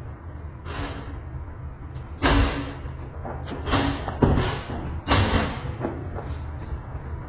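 A series of about five sudden thumps, unevenly spaced, over a low steady rumble.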